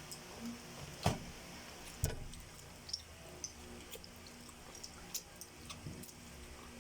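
Scattered light clicks and taps of eating utensils against bowls, the two loudest about one and two seconds in, over quiet room noise.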